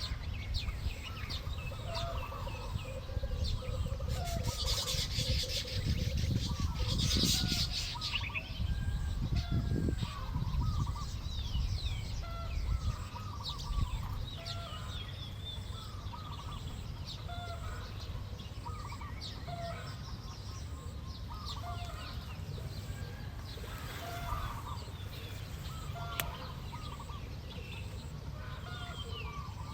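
Small birds chirping repeatedly with short calls, over a low rumble. About four seconds in there is a few-second burst of rustling.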